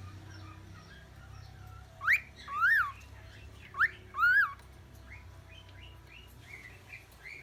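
Cockatiel whistling: two loud two-note phrases, each a quick rising note followed by a note that rises and falls, with soft short chirps in between.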